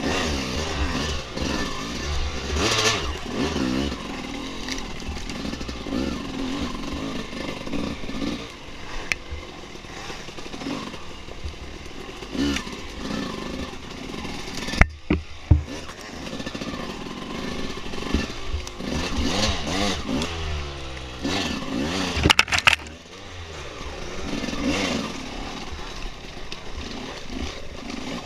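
Dirt bike engine running along a trail, its revs rising and falling as the throttle is worked. A few sharp knocks come about halfway through and again later on.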